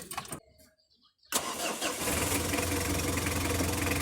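Mitsubishi 4D56 2.5-litre four-cylinder diesel engine of an L300 coming in suddenly about a second in and running steadily at idle, on its first start after an oil change.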